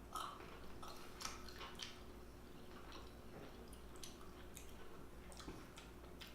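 Close-miked eating sounds: irregular wet chewing and lip smacks, with a few sharper clicks near the start and again around four and five and a half seconds in, over a faint steady hum.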